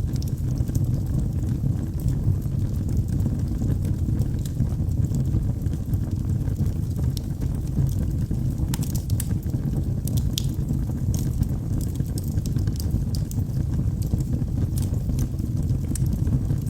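Wood fire burning in a fireplace: a steady low rumble of the flames with frequent sharp crackles and pops from the logs, a few louder pops about nine to eleven seconds in.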